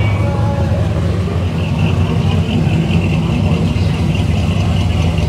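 A car engine idling close by: a steady low rumble.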